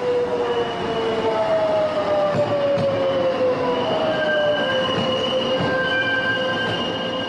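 Alishan Forest Railway train running, its wheels squealing against the rails in several long drawn-out tones, one slowly sliding down in pitch, over the rumble of the cars.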